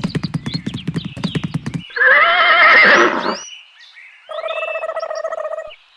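Horse sounds: rapid hoofbeats clip-clopping for nearly two seconds, then a loud wavering neigh, followed by a second, steadier call.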